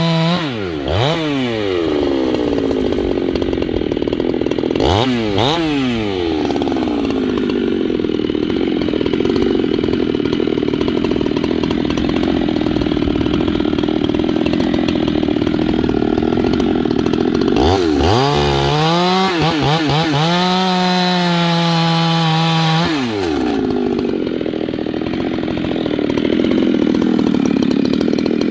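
Husqvarna 390XP two-stroke chainsaw running at full throttle and cutting wood. Its pitch drops as the chain takes the load. It revs up high again briefly about five seconds in, and for several seconds past the middle between cuts.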